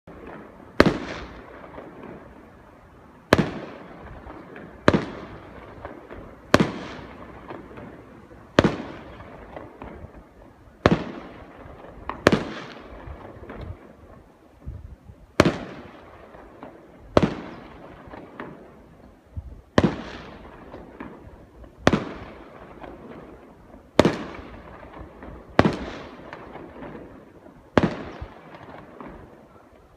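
Aerial firework shells bursting one after another, a sharp bang every second or two, each followed by an echoing tail; about fifteen bursts in all.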